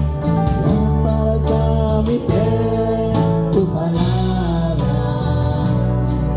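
Live worship music from a church band, with singing over held chords and bass and a steady beat.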